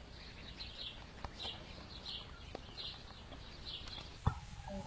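Duckling peeping, with short high calls repeating about twice a second. A single sharp knock sounds near the end.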